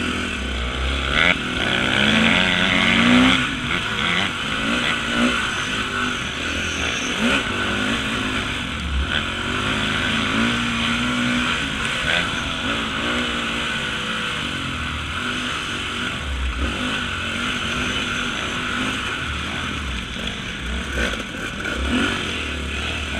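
Off-road motorcycle engine revving up and down continually as it rides, its pitch rising and falling, with low rumbling thumps throughout.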